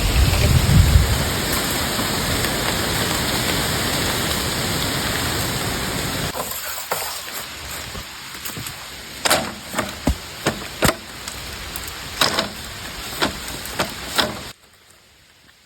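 Heavy rain falling steadily, with a low rumble in the first second. About six seconds in it thins to lighter rain with loud single drops striking one by one, then cuts off abruptly near the end.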